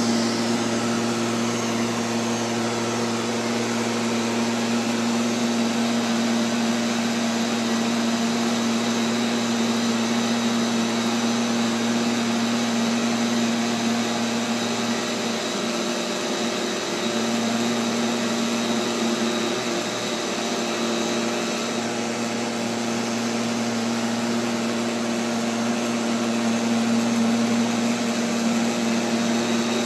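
Neato XV-11 robotic vacuum cleaner running, heard up close from a camera mounted on it: a steady motor hum and whine over brush and suction noise, which wavers briefly about halfway through.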